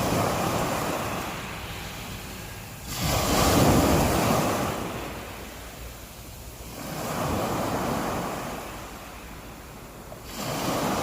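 Sea waves breaking and washing up on the beach in repeated surges every three to four seconds. The loudest comes about three seconds in.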